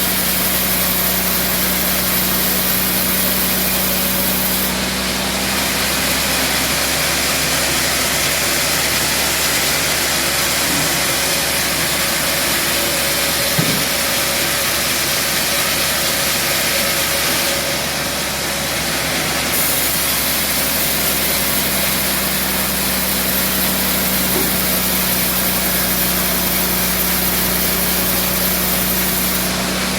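Band sawmill running steadily: a machine hum with a hiss over it. There is one short knock about fourteen seconds in.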